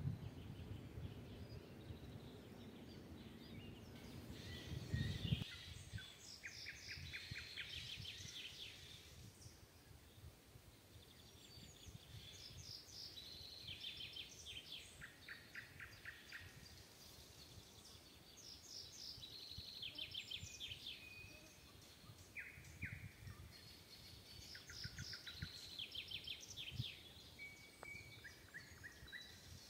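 Small songbirds singing in a forest: short trilled phrases of rapidly repeated high notes, one after another, from more than one bird. A low rumble underneath stops suddenly about five seconds in.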